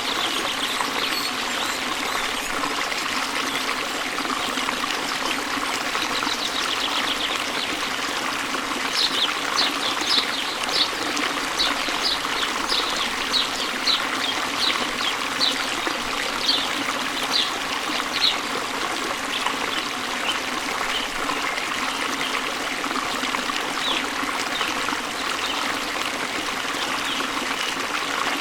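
Waterfall: water splashing and trickling steadily. Through the middle there is a run of short, high-pitched ticks, one or two a second.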